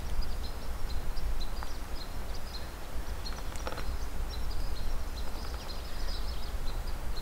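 Small birds giving short, high chirps again and again over a low, steady rumble.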